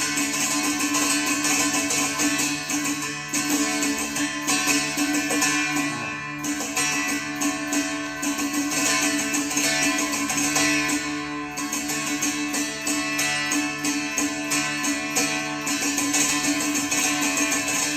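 Carnatic classical music: a plucked string instrument plays quick, busy phrases over a steady drone.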